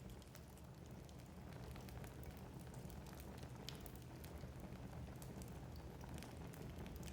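Wood fire burning in a fireplace: a faint, steady low rumble of flames under frequent small, irregular crackles and pops from the burning logs.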